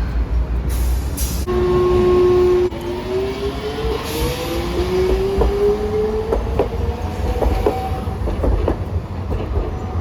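A Hiroshima Electric Railway streetcar sounds a short, steady horn tone, then pulls away. Its traction motors give a rising whine as it accelerates, and the wheels click over rail joints and points under a low rumble.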